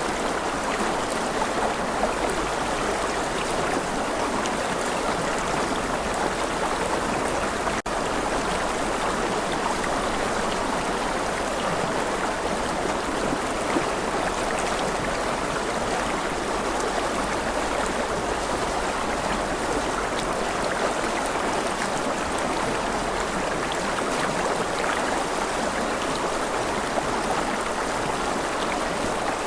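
Stream water running steadily, an even flowing sound with a momentary dropout about eight seconds in.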